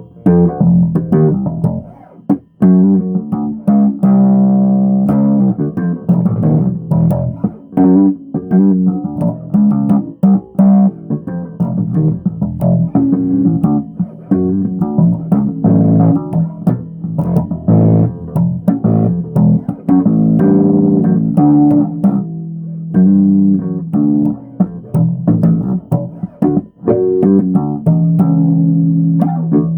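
Bass guitar being played: a continuous line of plucked notes with a few brief gaps.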